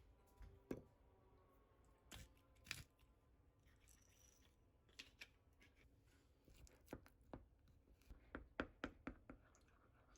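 Faint, scattered clicks and taps over quiet room tone, with a quick run of about five near the end.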